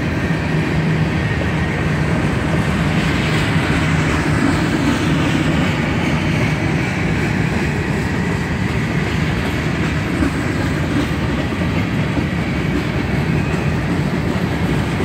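Freight train cars (covered hoppers and centerbeam flatcars) rolling past close by: steady noise of steel wheels running on the rails, unchanging throughout.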